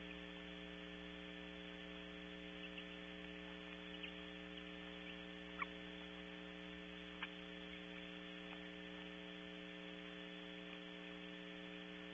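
Steady electrical hum with several fixed tones over a background hiss, from the recording equipment. A few short, faint clicks fall in the middle, the loudest two about a second and a half apart.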